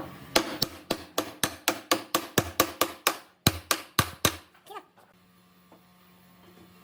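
Hammer blows on wood in quick succession: about fifteen sharp strikes, roughly four a second, that stop a little past four seconds in.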